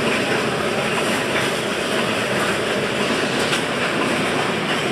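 Freight train of crude-oil tank cars rolling past at close range: a steady rumble of steel wheels on the rails, with a few faint clicks.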